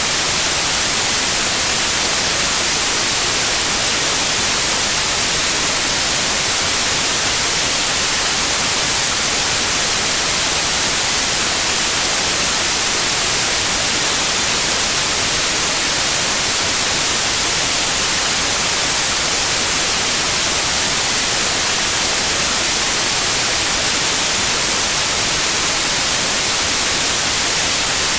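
Generated white noise, a steady even hiss. A thin, very high-pitched pure tone at 9645 Hz joins it about eight seconds in, drops out briefly near the end, and comes back; this is the tinnitus-masking sound.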